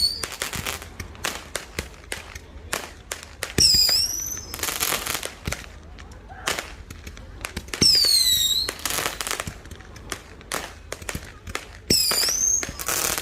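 Fireworks going off: three high whistles that slide down in pitch, about four seconds apart, each followed by a short hiss, over scattered sharp pops and crackles.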